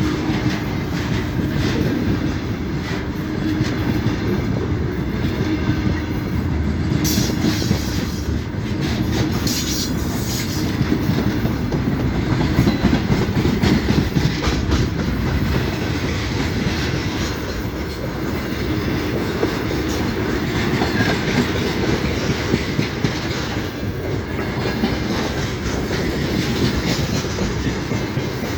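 A train running along the track, its wagons rolling with a steady rumble and wheel noise on the rails.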